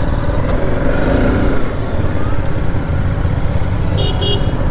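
BMW G 310 motorcycle's single-cylinder engine running at low speed with a loud, steady low rumble. Two short horn toots sound near the end.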